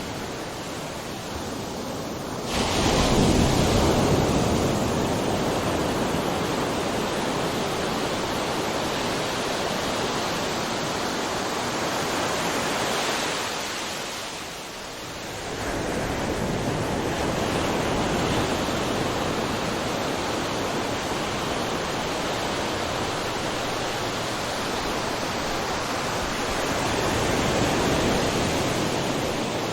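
Ocean waves breaking, a continuous rushing surf. A wave surges in sharply about two and a half seconds in, the rush eases off around fourteen seconds, then builds again just after and once more near the end.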